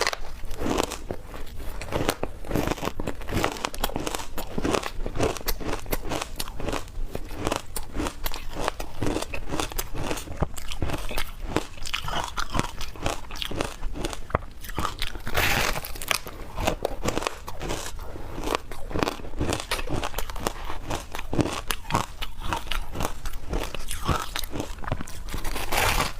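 A person biting and chewing frozen matcha shaved ice dusted with milk powder, close to the microphone: a dense run of crisp, irregular crunches.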